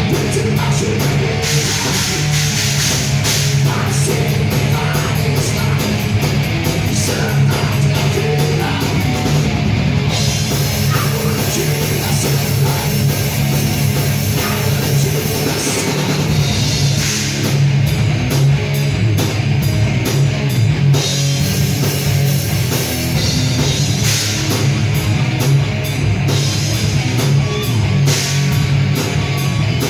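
A heavy metal band playing live: distorted guitars and a drum kit at full volume.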